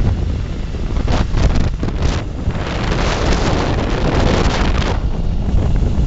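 Yamaha RD350 two-stroke twin running through a 2-into-1 exhaust, heavily buffeted by wind noise on the microphone.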